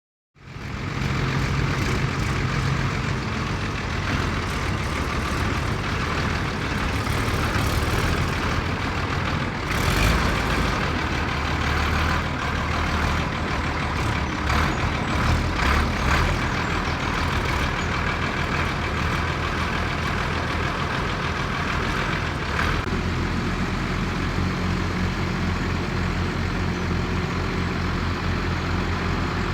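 Heavy diesel engine running steadily, with louder patches about a third and halfway through and a change in its low note a little past two thirds in.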